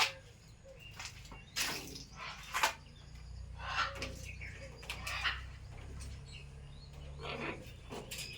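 Pet parrot making a series of short squawks and chirps, several separate calls spread through a few seconds.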